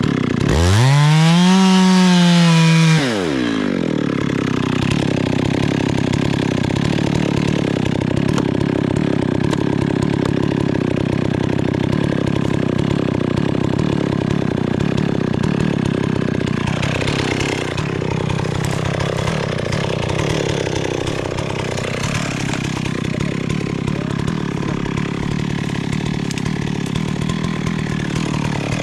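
Chainsaw revved to full throttle for a couple of seconds near the start, then running on while cutting wood, its pitch sagging and recovering under load about two-thirds of the way through.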